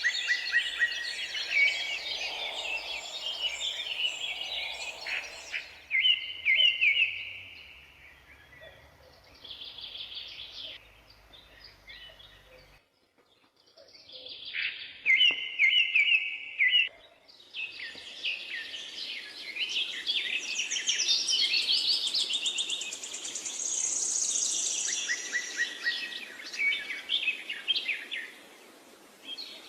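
Several songbirds singing and chirping at once, quick repeated notes and trills, with a short pause a little before the middle.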